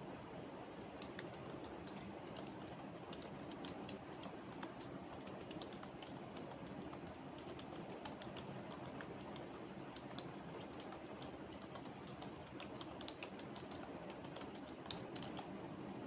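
Computer keyboard typing: irregular runs of quick, light keystrokes with a short lull midway, over a steady low background hum.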